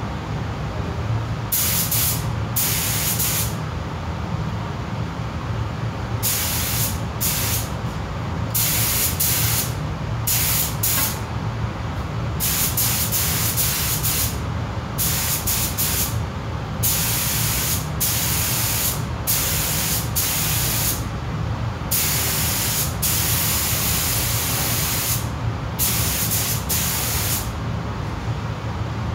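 Paint spray gun spraying primer in repeated bursts of hiss, some a fraction of a second and some about two seconds long, as the trigger is pulled and released, over a steady low hum.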